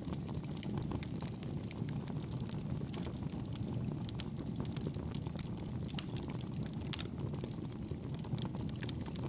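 Fire burning in a fireplace: a steady low rushing of the flames with frequent small crackles and pops scattered throughout.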